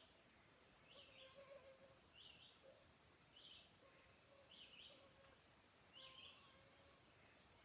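Faint wild bird calls: a short, scratchy call repeated about once a second, with quieter, lower notes between the calls.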